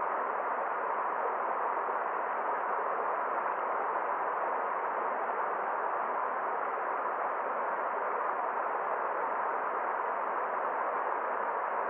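Forest stream water rushing in a steady, even flow, with no separate splashes or drips standing out. The sound is muffled, with nothing in the high treble.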